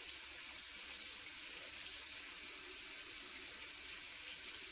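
Warm water running steadily from a tap into a sink.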